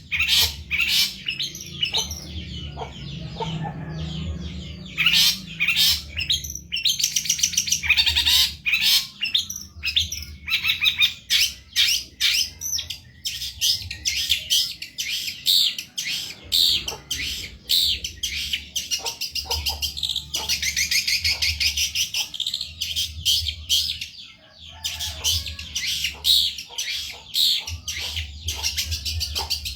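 Long-tailed shrike (cendet) singing nonstop in rapid, varied chattering and chirping phrases full of mimicked song, with a faint low hum underneath.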